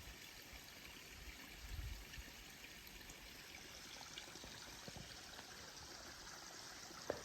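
Waterfall running steadily, a faint even rush of water. A brief low rumble about two seconds in.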